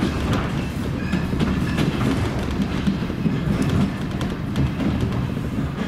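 Train running on the rails: a steady rumble with wheels clacking.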